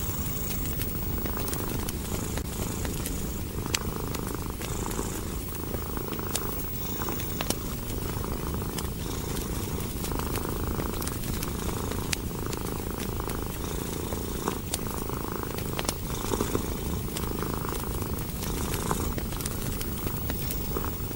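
Domestic cat purring steadily, swelling and easing with each breath about once a second, over scattered sharp pops and crackles of a wood fire.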